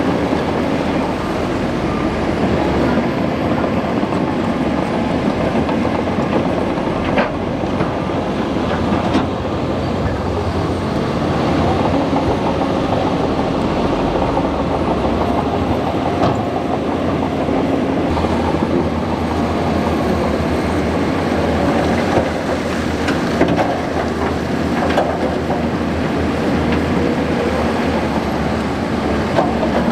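Bulldozer at work: its diesel engine running steadily under load, with the clank of the steel tracks and a few sharp metallic knocks.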